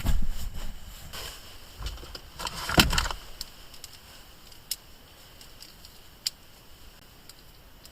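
Objects being handled with knocks and clatter, a louder burst about three seconds in, then two single sharp clicks.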